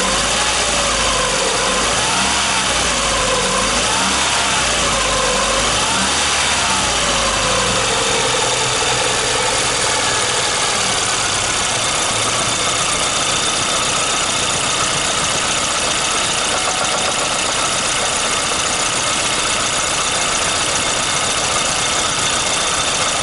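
VAZ 2111 1.5-litre eight-valve injected four-cylinder engine running steadily, with a periodic tapping knock that sets in as the engine warms up; its cause is unknown to the owner. For the first eight seconds or so, a whine rises and falls in pitch over the running.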